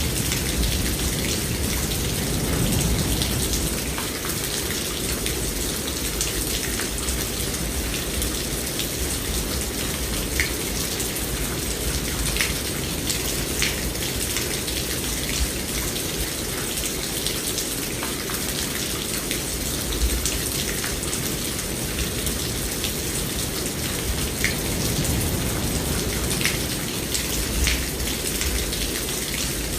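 Steady heavy rain falling, with scattered distinct drop clicks over an even hiss. A low rumble of distant thunder swells a few seconds in and again near the end.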